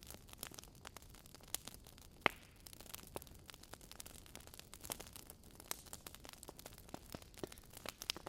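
Wood fire burning in a fireplace, crackling with irregular sharp pops over a soft hiss; the loudest pop comes about two seconds in.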